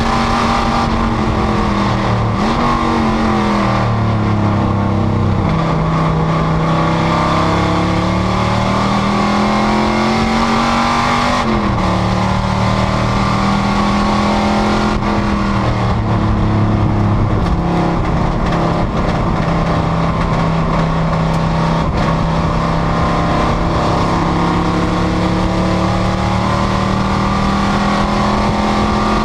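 Panoz GTS race car's V8 engine under racing load. Its pitch dips about two seconds in, then climbs steadily through a gear. It drops sharply at an upshift about eleven seconds in and holds fairly steady for the rest.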